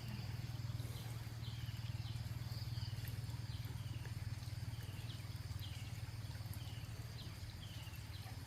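A small bird calling over and over, short high chirps that slide downward, repeating every second or less, over a steady low hum.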